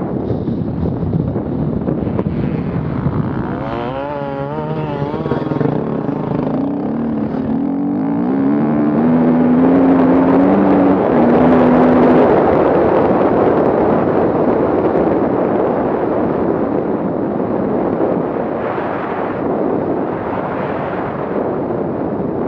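An off-road vehicle's engine running under load, its pitch climbing in steps from about four seconds in, then fading back into a steady rushing noise near the middle.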